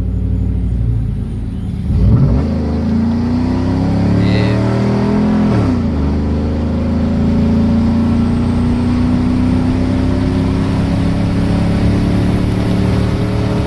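Pickup truck engine through a true dual exhaust with an X-pipe, no catalytic converters and single-chamber Flowmaster 10 mufflers. It rolls at about 20 mph, then goes to full throttle about two seconds in. The revs climb, drop at a gear shift about six seconds in, and climb again steadily.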